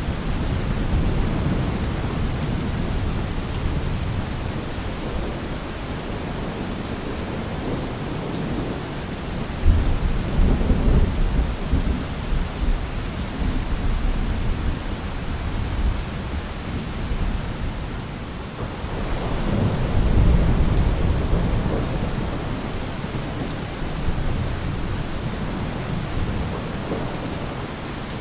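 Thunderstorm: steady heavy rain with thunder rumbling low beneath it. The thunder swells louder about a third of the way in and again about two-thirds through.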